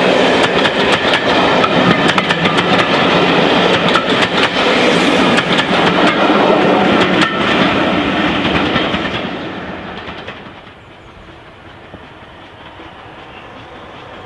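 Steam-hauled train of passenger coaches passing close by, the wheels clattering and clicking over the rail joints. The noise fades away about nine to ten seconds in as the last coach draws off down the line.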